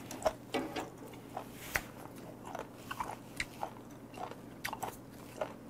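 Close-up chewing of raw beef aorta (odeuregi), a firm, cartilage-like cut, giving a steady run of short crisp crunches, about three a second.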